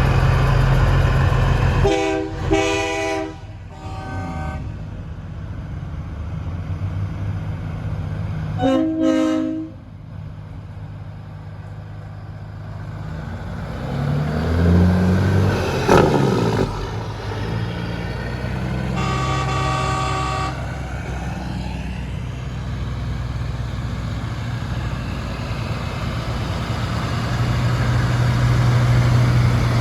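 Semi-truck air horns blowing in several short blasts over the steady running of diesel truck engines, with one engine revving up about halfway through.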